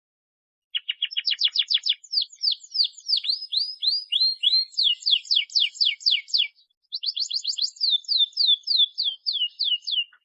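Canary singing a long song of rapid trills, each a fast run of downward-sliding notes, starting just under a second in, with a short pause a little past the middle.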